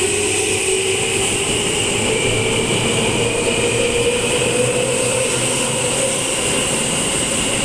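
Seibu 2000 series electric train pulling away from a station, its motors giving a whine that rises slowly in pitch as it picks up speed, over the steady rumble of the train.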